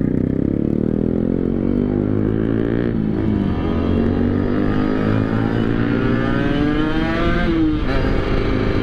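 Two-stroke motorcycle engine accelerating hard, its pitch climbing through the revs, dropping at a gear change about three seconds in, climbing again and dropping at another shift near the end.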